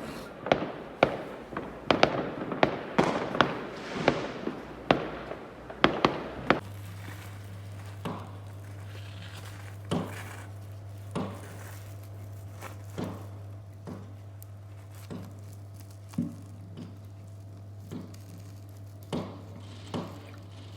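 Fireworks exploding: a rapid run of sharp bangs, several a second. About six and a half seconds in, this gives way abruptly to a steady low hum with fainter single bangs roughly once a second.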